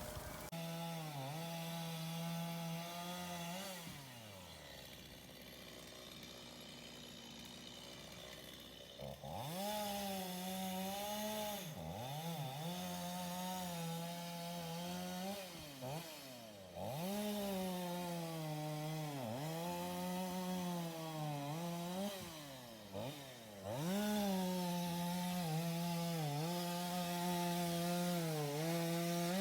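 Stihl two-stroke chainsaw cutting through the heavy trunk of a downed tree. It runs at high speed, and its pitch sags and recovers again and again as the chain bites into the wood. About four seconds in it drops back to a quieter idle for several seconds, then revs up and cuts again.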